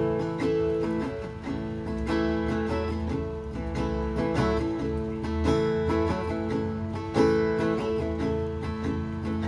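Acoustic guitar strumming chords, a steady instrumental opening with no singing.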